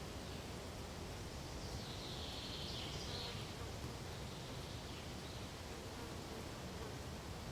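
Pine forest ambience: a steady soft rustle of wind through pine needles, with one brief high call from about two to three seconds in.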